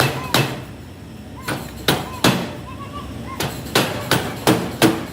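Hammer striking metal in quick runs of two to four blows about 0.4 s apart, each blow ringing briefly, around nine strikes in all.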